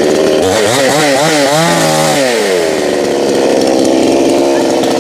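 Two-stroke gas chainsaw running at speed. About half a second in, its engine pitch drops and wavers up and down for roughly two seconds, then climbs back to a steady high speed.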